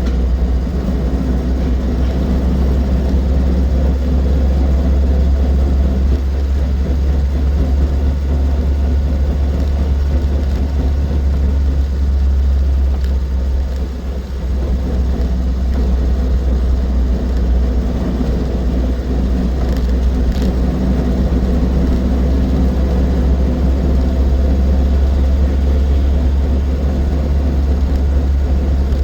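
Austin 7's small four-cylinder side-valve engine and drivetrain running on the road, with a heavy, steady rumble and a brief easing about halfway through.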